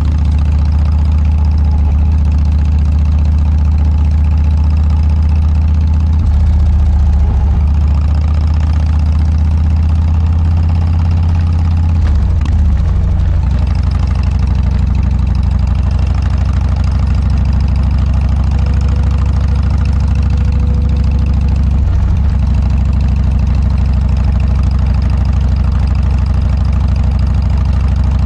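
Harley-Davidson Dyna's V-twin engine running through a Motorstage aftermarket muffler: a loud, steady, low exhaust note that shifts briefly in pitch about six, twelve and twenty-two seconds in.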